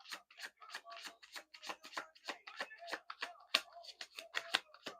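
Oracle cards being shuffled by hand: a steady run of quick papery slaps and clicks, about four a second.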